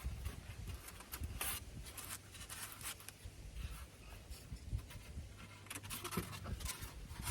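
Intermittent rubbing and scratching handling noises with a few light taps, the strongest about a second and a half in and again near the end.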